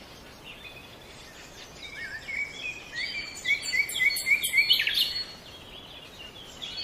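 Small birds chirping and calling, several voices overlapping, with a quick run of repeated chirps in the middle that then thins out.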